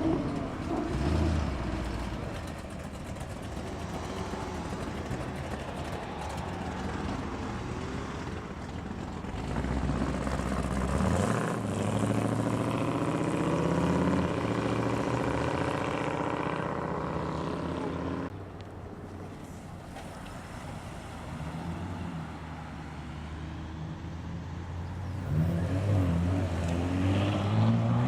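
Audi cars driving away one after another, engines accelerating past with rising pitch; one pulls away about ten seconds in and another revs up near the end.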